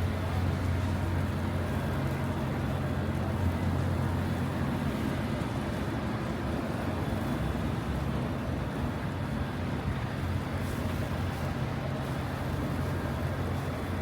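City street traffic: a steady low engine rumble under a constant haze of road noise.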